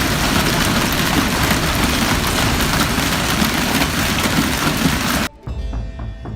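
Loud steady rushing roar of an avalanche and its swirling snow powder. It cuts off suddenly about five seconds in, and dramatic music with deep drum hits takes over.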